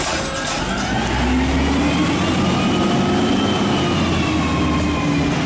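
Side-loader garbage truck's engine revving up as the truck rolls off, its pitch rising over the first couple of seconds, holding, then easing back down near the end, over loud road and mechanical noise.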